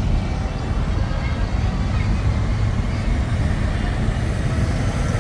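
Tractor engines running, a steady low rumble.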